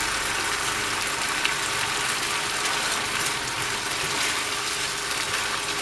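Chicken pieces sizzling steadily in oil in a frying pan, with fine crackling as their cooking liquid boils off over raised heat.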